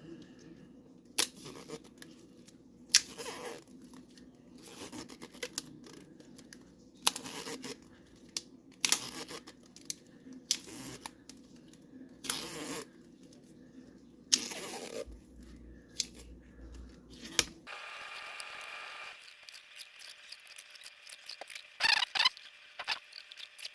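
Adhesive tape being pulled off its roll in short rips, every second or two, as it is wrapped around a paper tube.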